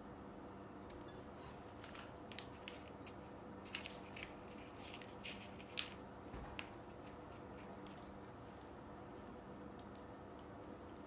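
Scattered light clicks and taps of kitchen utensils being handled, over a faint steady hum.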